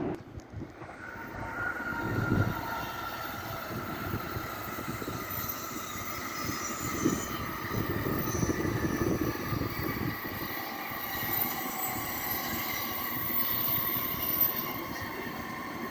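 Electric train running past, a high whine slowly falling in pitch over the rumble of wheels on the rails.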